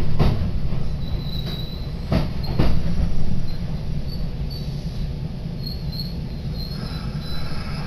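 Kintetsu commuter train heard from inside the carriage as it runs along a station platform: a steady low rumble of wheels on rail, a few sharp knocks from rail joints (two close together about two seconds in), and faint high squeaks at times.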